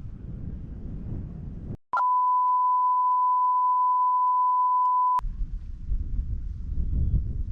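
A steady, pure beep tone, about three seconds long, that cuts in and out sharply, of the kind edited into a video as a censor bleep. Low wind noise on the microphone comes before and after it.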